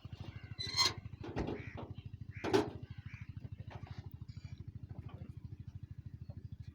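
Massey Ferguson 375 tractor's diesel engine idling with a fast, even chug. Two short, sharp louder knocks stand out, about a second in and again about two and a half seconds in.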